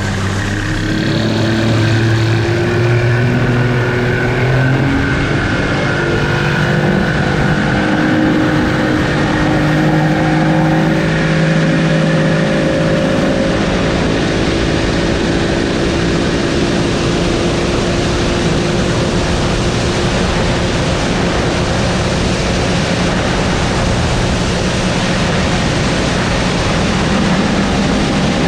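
Boat's outboard motor running under way. Its pitch climbs over the first dozen or so seconds as it speeds up, then holds steady under a loud rushing noise of wind and water.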